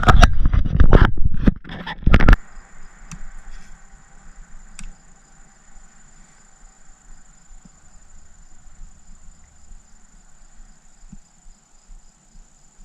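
About two seconds of loud knocking and rustling, then insects droning steadily at a high pitch.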